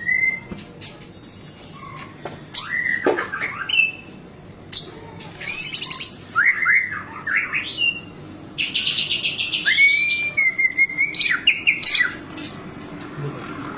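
White-rumped shama (murai batu) singing a varied song of sliding whistled phrases and sharp high notes, with a rapid buzzy trill about nine seconds in. The song is laced with mimicked calls of other birds.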